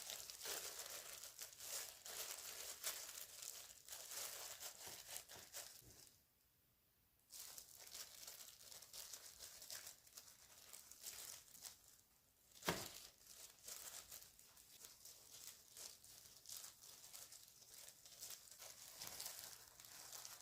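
Close, continuous crinkling and rustling of something being handled, with a brief drop to near silence about six seconds in and a single sharp knock about halfway through.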